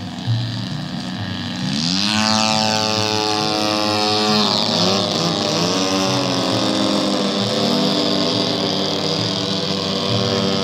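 Radio-controlled model airplane engine running, revving up sharply about two seconds in, then holding a high, steady buzz whose pitch dips and recovers a couple of times.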